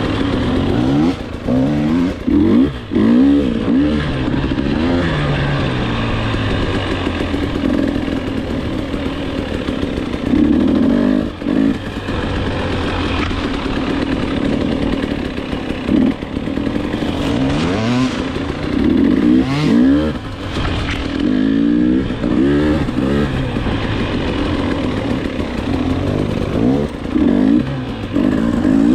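Dirt bike engine being ridden hard, revving up and dropping back again and again as the throttle opens and closes and the gears change. A few sharp knocks sound over the engine.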